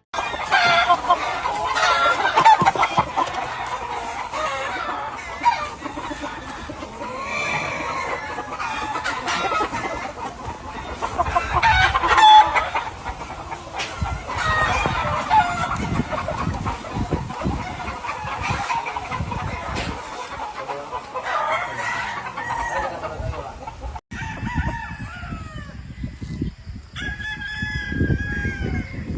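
Many gamefowl roosters crowing over one another, mixed with clucking.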